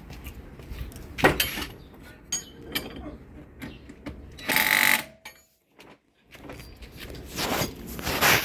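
Power tool running in short bursts during shock-bolt work, the longest and loudest lasting over half a second about four and a half seconds in, with a second of near quiet soon after.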